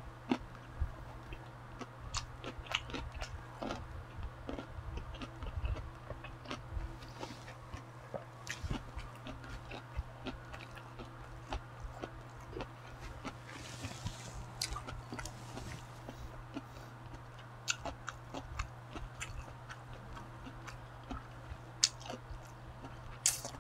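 A person chewing food close to a lapel microphone, with irregular wet clicks and small crunches. A steady low hum runs underneath.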